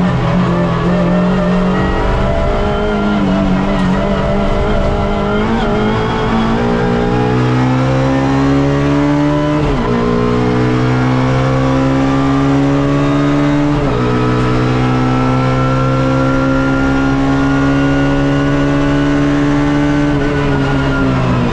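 Suzuki Swift race car's engine heard from inside the car under hard acceleration. The engine note climbs in pitch, drops sharply at two upshifts about ten and fourteen seconds in, holds high, then falls away near the end as the driver lifts off.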